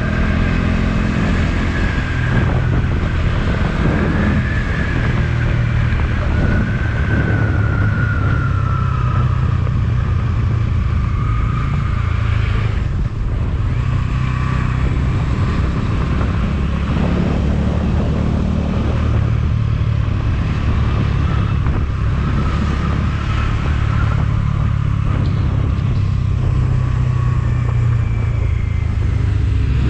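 Motorcycle engine running steadily on the move, with a thin wavering whine above it for the first dozen seconds.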